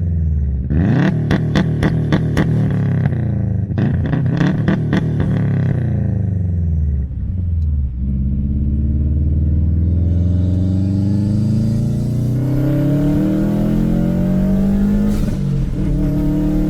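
Turbocharged flat-four engine of a stage 2 tuned 2010 Subaru WRX accelerating hard through the gears. The pitch climbs and drops at each shift, with rapid clicking over the first two pulls, then rises steadily in one long pull through the second half.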